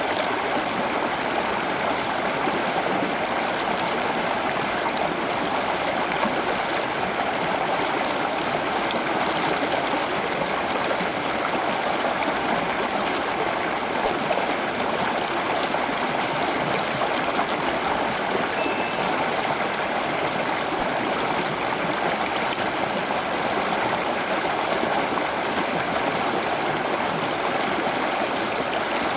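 Running water, an even, unbroken flow like a stream or a small waterfall.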